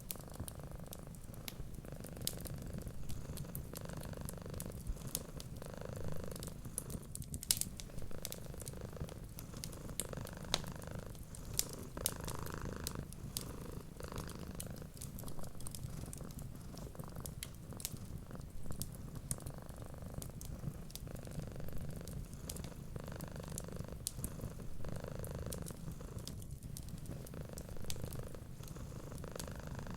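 Domestic cat purring steadily, swelling and fading about every two seconds, with scattered sharp crackles from a wood fire.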